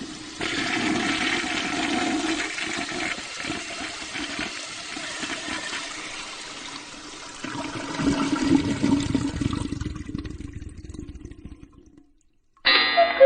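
Toilet flushing: a steady rush of water that swells again partway through, then drains away and fades out about twelve seconds in.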